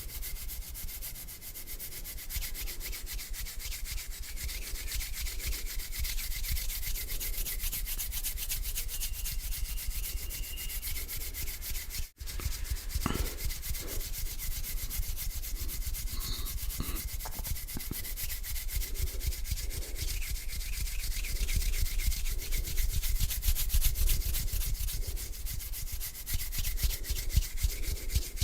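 Hands rubbing together close to the microphone: a continuous dry rasping made of slow back-and-forth strokes, broken by a momentary gap about twelve seconds in.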